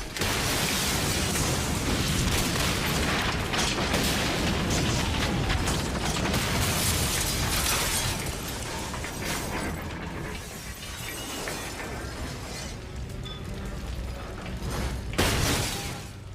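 Film sound effects of a car exploding in a crash: a loud, dense blast with shattering debris, easing off after about eight seconds, then another sudden bang near the end.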